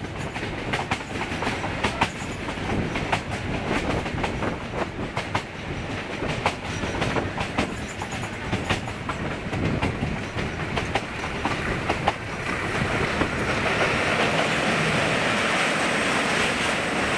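Metre-gauge passenger coach running at speed, heard from its open doorway: the wheels clatter with many sharp clicks over the track. From about twelve seconds in the sound turns into a louder, steadier, hissing rumble as the train crosses a steel truss girder bridge.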